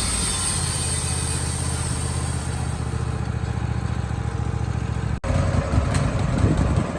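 Woodmizer LT15 band sawmill running, its engine steady under load as the blade cuts pine. The sound breaks off abruptly about five seconds in, then resumes rougher.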